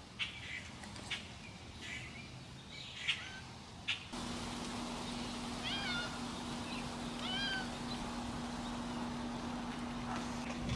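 Domestic cat meowing twice, short high-pitched meows that rise and fall, about six and seven and a half seconds in. A steady low hum starts suddenly about four seconds in.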